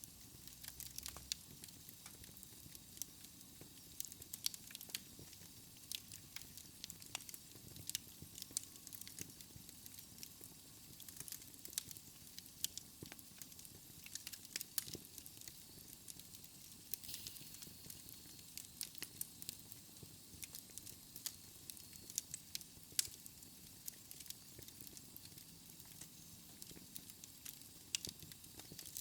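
Wood fire burning in a fireplace: soft hissing with frequent, irregular sharp crackles and pops.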